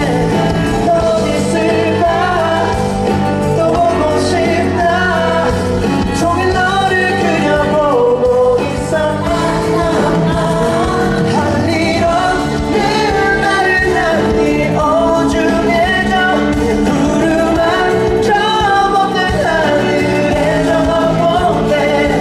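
Live pop ballad: a male singer's voice over a backing band, played loud and without a break.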